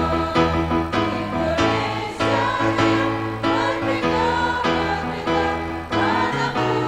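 A choir singing in harmony, with long held notes over a steady low accompaniment.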